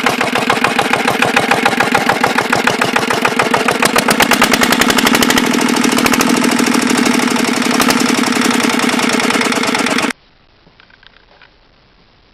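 Old diesel engine running, each firing stroke heard in a fast, even beat that quickens about four seconds in, then holds steady. About ten seconds in the sound cuts off abruptly, leaving a much quieter stretch with a few faint ticks.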